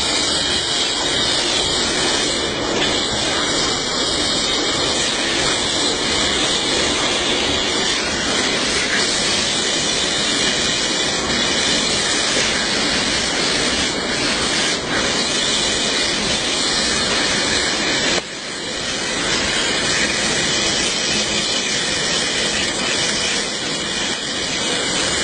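Steady, loud hiss of spraying or rushing water, dropping off suddenly for a moment about eighteen seconds in before building back up.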